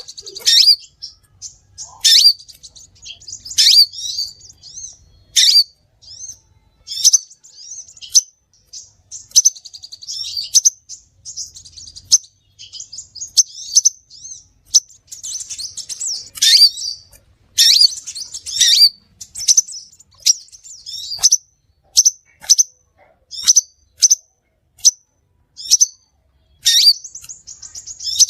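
Crimson sunbird (sepah raja) calling: sharp, high-pitched chirps and short rapid trills, repeated every second or so, played as a lure call for trapping the species.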